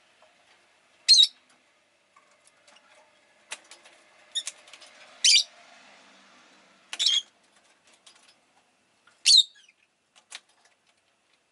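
Rosy-faced lovebird giving four loud, sharp, high-pitched chirps a second or two apart, with a few fainter chirps and light clicks in between.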